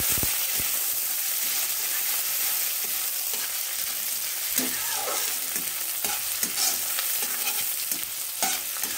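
Chopped onion and a bay leaf sizzling in hot oil in a metal kadai, with a metal spatula scraping and stirring against the pan.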